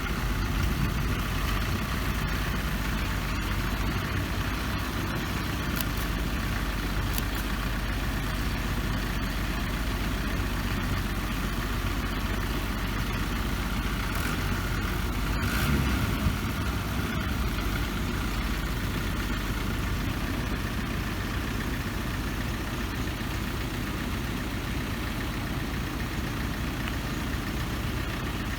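Engine of a narrow-gauge sugar-railway train idling steadily, with a brief swell in level about sixteen seconds in.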